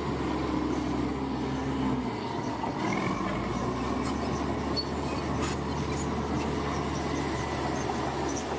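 Bulldozer's diesel engine running steadily, with a faint metallic squeal that rises briefly about three seconds in.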